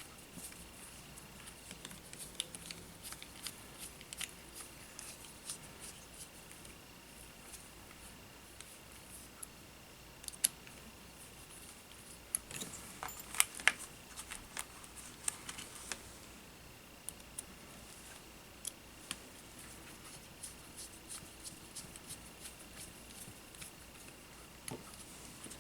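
Scattered light clicks and taps of small tools and parts being handled on a workbench during a drone frame repair, with a brief cluster of louder snaps past the middle. A faint steady high whine is there at the start, drops out, and returns for the second half.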